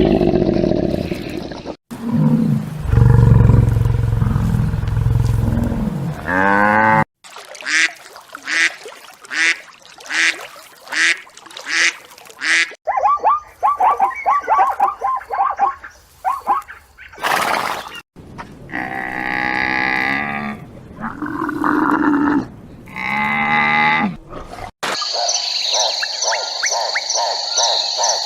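A run of different animal calls, about six short recordings spliced one after another with abrupt cuts between them. In the middle stretch a call repeats about twice a second, then a faster run of short calls follows.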